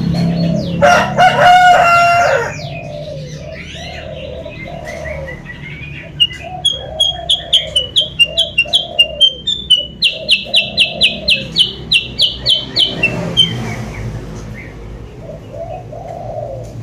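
Bird lure-call recording: a rooster crows once about a second in, over a steady run of low repeated bird notes. From about six seconds in, a songbird gives a rapid series of sharp, high chirps, about three a second, for some seven seconds. These chirps are taken for the kutilang sutra's lure call.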